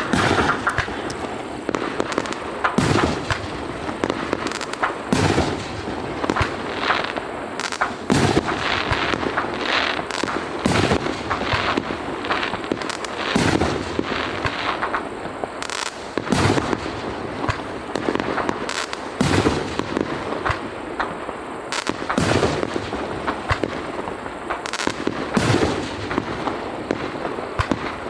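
Fireworks going off in a rapid, unbroken barrage of bangs and pops, with louder bangs standing out every second or two.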